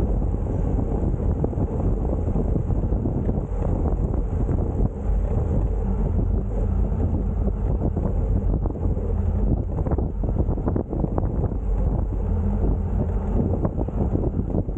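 Steady wind buffeting the microphone of a camera on a moving bicycle, with a few faint clicks about two-thirds of the way through.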